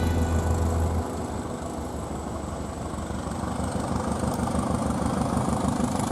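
G-scale model garden train running on its track, a steady mechanical rumble and clatter with a faint high whine that slowly rises.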